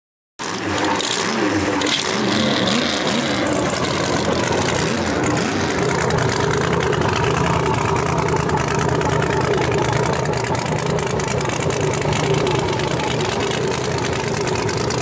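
A drag-racing funny car's engine running loudly at idle. It cuts in suddenly, wavers in pitch over the first few seconds with small throttle changes, then settles into a steady, even note.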